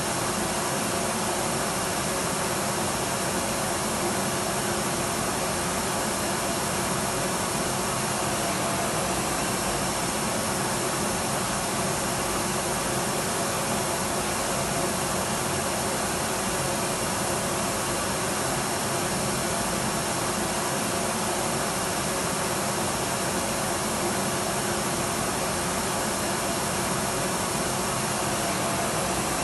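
Electric vacuum cleaner running steadily, a continuous even whooshing hum with a faint high whine and no change in speed.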